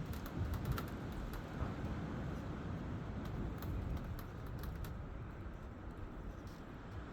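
Strong wind buffeting the microphone in a steady low rumble, with scattered light clicks and rustles over it.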